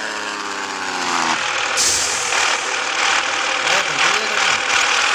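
Scania S 450 truck running, its engine note falling slightly for the first second or so, then a steady hiss of road and air noise.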